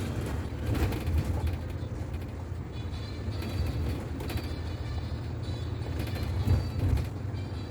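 A double-decker city bus running, heard from inside the cabin: a steady low engine and road rumble with occasional knocks and rattles, the loudest jolt about six and a half seconds in.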